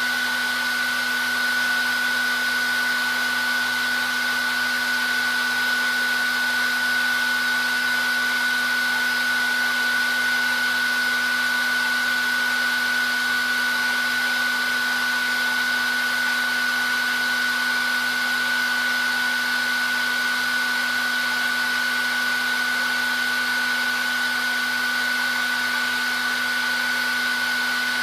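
Handheld hair dryer running steadily: a constant rush of air with a steady high whine from the motor and fan and a lower hum beneath.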